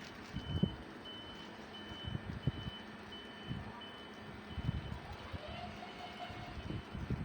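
A high electronic beep repeating evenly, about one and a half beeps a second, over low gusts of wind on the microphone.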